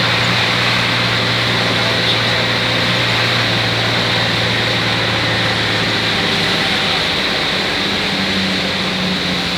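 Bus cabin noise while driving in the rain: a steady engine drone under a constant hiss of tyres and rain. The engine note rises a little about eight seconds in.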